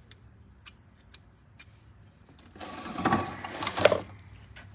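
A flathead screwdriver working a piston ring into the cylinder bore: a few light metal clicks, then a short run of metal scraping and clinking about three seconds in, with two sharp knocks near the end of it.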